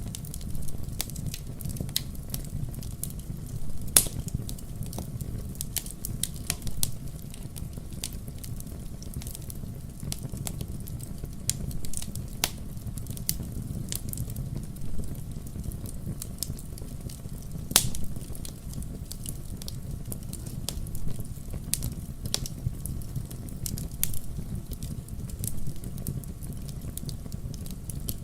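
Wood fire burning in a fireplace: a steady low rumble of the flames with irregular crackles and sharp pops, the loudest snaps about 4 and 18 seconds in.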